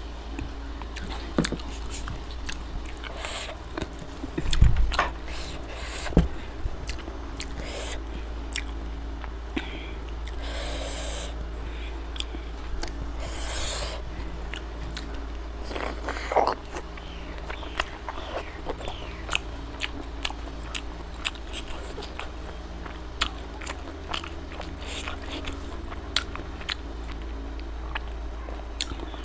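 Close-miked eating: chewing chicken leg meat and rice, with many sharp wet mouth clicks and smacks.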